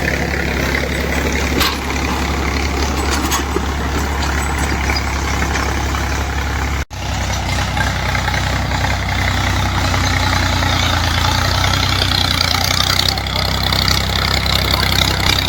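Tractor engine running steadily. The sound drops out for an instant about seven seconds in.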